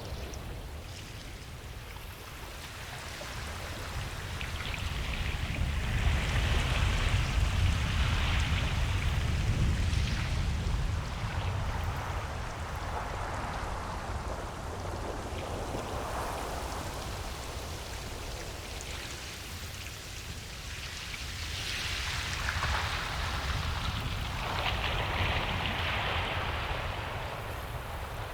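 Ocean waves breaking and washing up a beach, a steady hiss with a low rumble that swells twice as waves come in.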